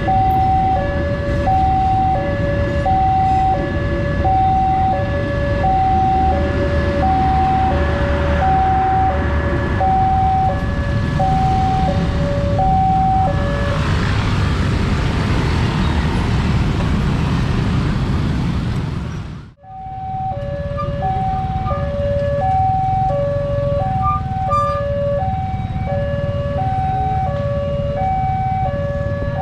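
Railway level crossing warning alarm sounding its repeated two-tone high-low signal, about one pair a second, warning that a train is approaching. Partway through the alarm stops for several seconds while a broad rushing noise swells, then after a sudden break the two-tone alarm starts again.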